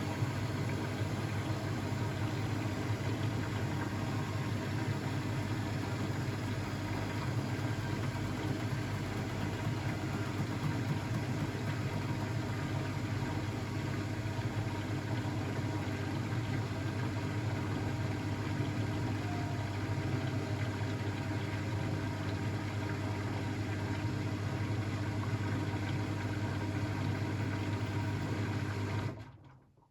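Blomberg WAF 7442 SL washing machine running with a steady mechanical hum, which dies away to silence near the end.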